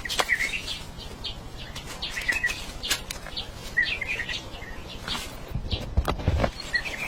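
Small birds chirping in short repeated calls, among scattered sharp taps, with a brief low rumble about six seconds in.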